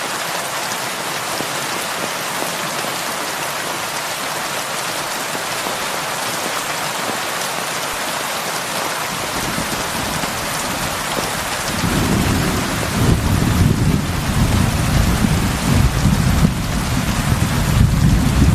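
Heavy rain falling steadily. About ten seconds in, a low rumble of thunder builds and keeps rolling in uneven swells to the end.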